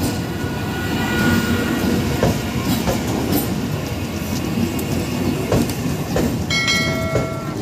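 MEMU electric multiple-unit train rolling slowly into a station platform, with a steady rumble and irregular wheel clacks over the rail joints. A brief high steady tone, with several pitches at once, rings out for about a second near the end.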